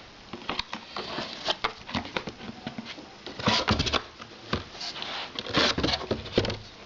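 Cardboard box and plastic water bottles being handled: scattered clicks, knocks and rustling, busiest about three and a half and five and a half seconds in.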